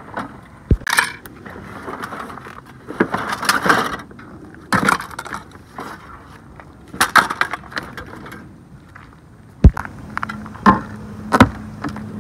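Knocks and clatter of Porta-Bote folding-boat parts and gear being handled and set down during assembly, with rustling between and a sharp knock about ten seconds in. Near the end a steady low hum starts.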